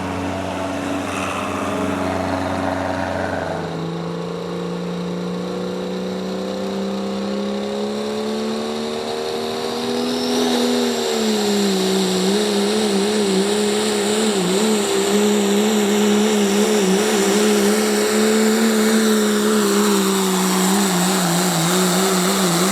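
A truck or tractor pulling engine running hard through a pull. Its pitch climbs steadily for several seconds, then, about ten seconds in, it steps down slightly and gets louder, holding high revs with a wavering pitch.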